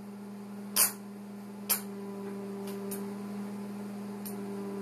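Steady electrical buzzing of an arc welder, with about five sharp clicks scattered through it; a second, higher steady tone joins the buzz about two seconds in.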